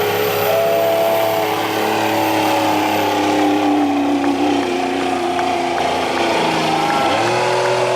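Diesel pulling truck's engine running hard under load, its pitch sagging slowly, then dipping sharply and climbing back near the end.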